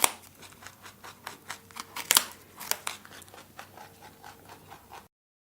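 Rabbit munching: a fast, irregular run of crisp crunching clicks, cutting off abruptly near the end.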